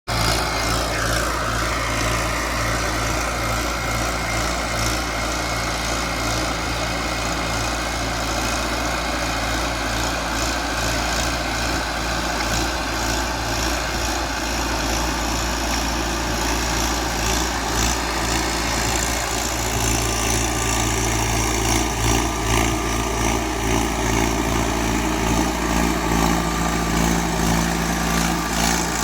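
Mahindra Arjun 605 DI tractor's diesel engine running steadily; its note shifts slightly and gets a little louder about two-thirds of the way through.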